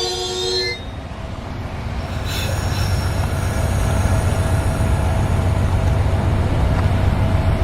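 A train rolling past: the low rumble of its cars and wheels grows louder. A high wheel squeal on the rails cuts off about a second in.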